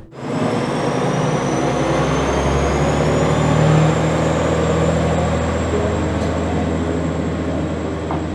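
Older-style local train running, with a steady low engine hum and a thin high whine that climbs slowly and then holds. It is loudest about four seconds in and eases off slowly after that.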